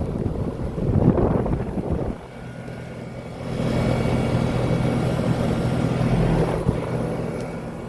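Trane central air conditioner's outdoor condenser running, a steady low hum from its reciprocating compressor under the whoosh of the condenser fan. The sound grows rougher in the first two seconds and dips briefly near the middle.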